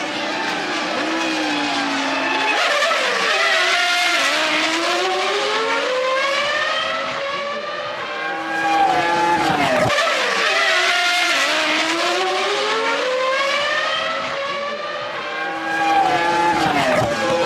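Formula One cars' 3-litre V10 engines at racing speed, their pitch climbing steeply and dropping again over and over as they go up and down through the gears.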